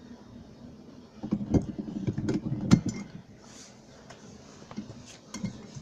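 Metal clanks and clicks as a welder's ground clamp is fixed onto a kick scooter's metal frame. A burst of knocks about a second in, the loudest near the three-second mark, then a few lighter clicks near the end.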